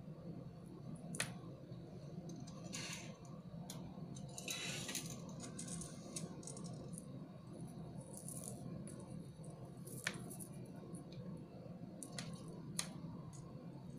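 Small sharp clicks and brief rustles of plastic beads and metal beading tools being handled, over a steady low background hum.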